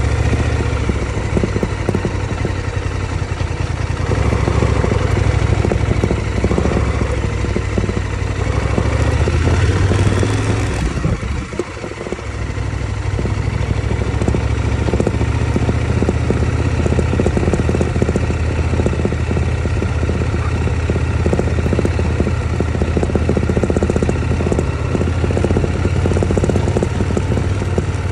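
KTM 1190 Adventure's V-twin engine running steadily as the motorcycle rides a dirt trail, dipping briefly about eleven seconds in before pulling on again.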